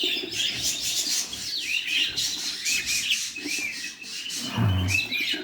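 Budgerigars chirping, a rapid run of short, rising-and-falling chirps one after another.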